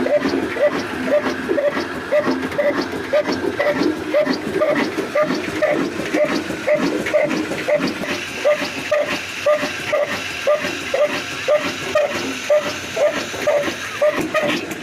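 A 22 HP diesel engine running with a slow, even beat of exhaust chuffs, about two to three a second.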